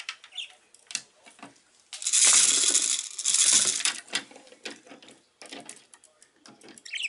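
Budgerigars bathing in a shallow tray of water with small toys: scattered light clicks and clinks from toys and claws, and a loud spell of splashing with flapping wings from about two seconds in, lasting about two seconds.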